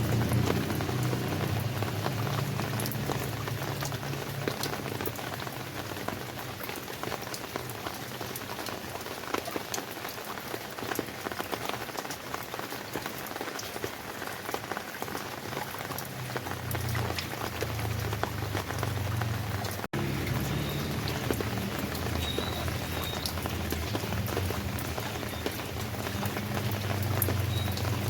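Rain falling steadily on surfaces, a dense patter of individual drops. A low hum is under it at the start, fades away, and comes back about two-thirds of the way through. The sound cuts out for a split second near the same point.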